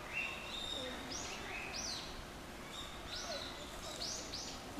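Birds calling in the background: a series of short high chirps, some held on one pitch and some arching up and sweeping down, repeating about every half second over a steady outdoor hiss.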